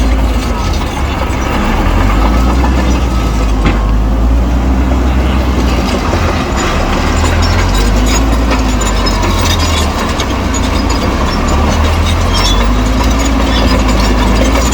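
Bulldozer's diesel engine running steadily under load, a deep low rumble with a light metallic clatter from the tracks.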